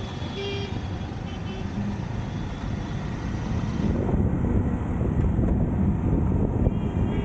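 Road traffic noise heard while riding through city streets, a dense rumble that grows louder about halfway through. A couple of brief high beeps sound in the first two seconds.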